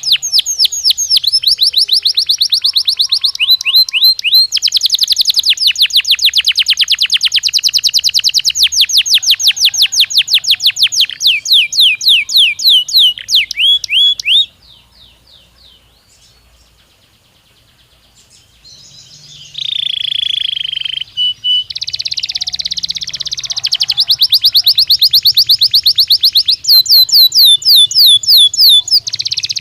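Belgian canary singing long runs of rapid repeated trilled notes. The song drops to a faint warble about halfway through, then picks up again with a harsher buzzing note and more fast trills.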